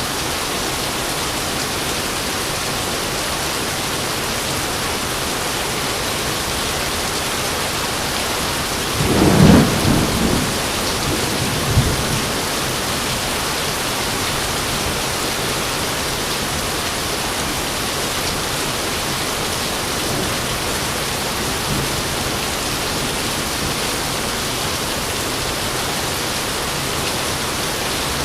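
Steady rain pouring down. About nine seconds in, a clap of thunder rumbles for a second or so, and a shorter, sharper crack follows about two seconds later.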